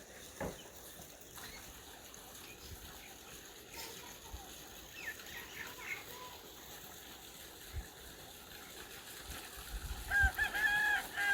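Domestic fowl calling: a few short calls about halfway through, then a loud, held honking call with a slightly wavering pitch near the end.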